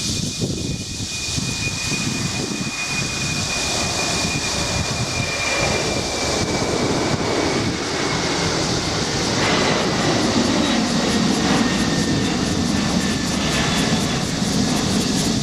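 Jet airliner's engines passing, steadily louder, with a high whine that slowly falls in pitch.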